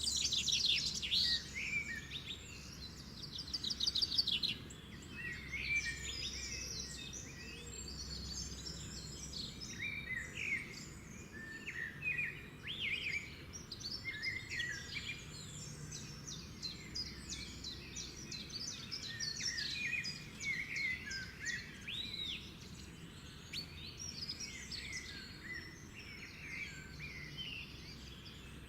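Several birds calling and singing, with many short chirps and whistles overlapping and a fast trill of rapid notes in the first few seconds, over a faint steady low background noise.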